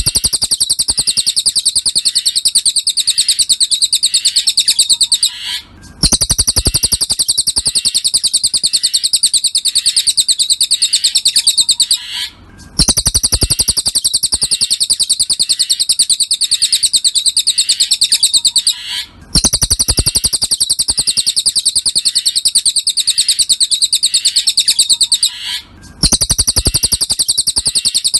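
Cililin songbird singing a fast, high-pitched chattering trill of rapidly repeated chirps, in phrases about six seconds long separated by brief pauses.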